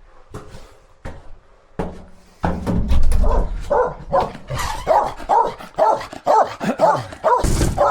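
A young dog barking and yipping in short repeated calls, about two a second, starting about four seconds in. Before them come a few sharp knocks and a loud low rumble.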